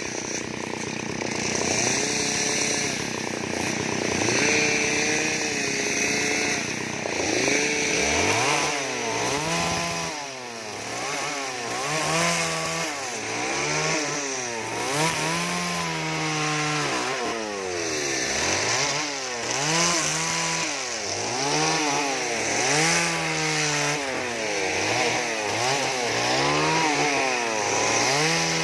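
Two-stroke chainsaw cutting into wood. The engine runs fairly evenly for the first few seconds, then revs up and down over and over, rising and falling in pitch about every second and a half.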